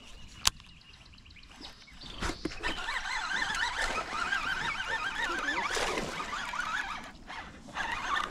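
Birds calling in warbling, wavering trills for several seconds, starting a little under three seconds in. A single sharp click comes about half a second in.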